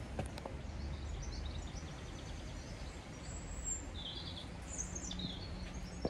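Small birds chirping and singing in short high phrases over a steady low outdoor background rumble, with a footstep or two on paving near the start and end.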